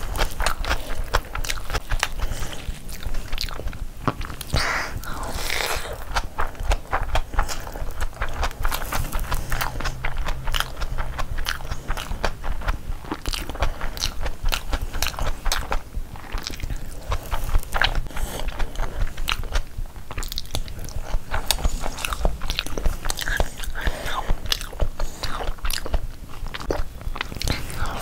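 Close-miked eating sounds: a person chewing big mouthfuls of biryani and mutton bhuna, with a continuous run of quick, wet mouth clicks and smacks.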